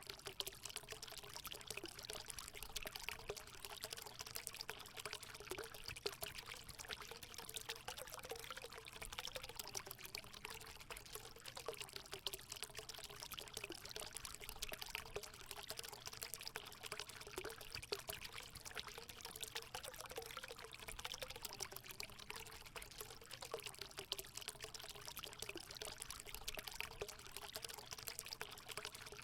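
Natural water running steadily into a hot spring, a continuous pouring and trickling with a faint wavering note underneath.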